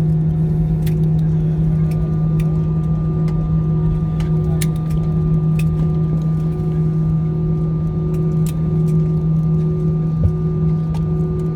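Steady cabin drone of an Airbus A320-family airliner's engines and airflow: a constant low rumble with an unwavering hum and fainter higher tones, and a few small clicks and rattles scattered through it.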